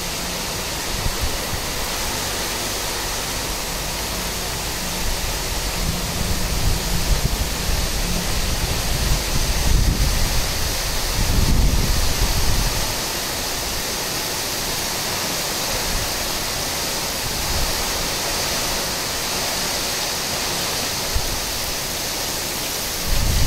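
Heavy rain pouring steadily in gusty wind. Low rumbling gusts of wind hit the microphone through the middle stretch.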